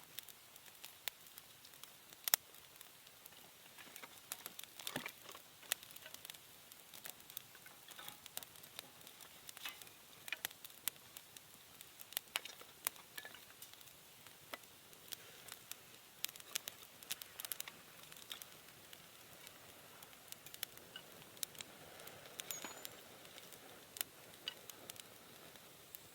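Wood campfire burning, crackling with irregular sharp pops and snaps.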